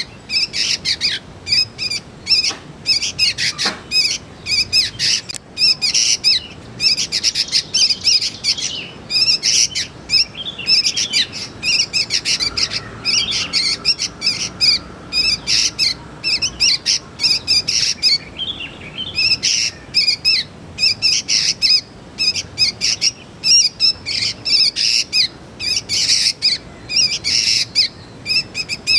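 Young sooty-headed bulbuls (kutilang) calling: a fast, continuous run of short, harsh chirps repeated several times a second.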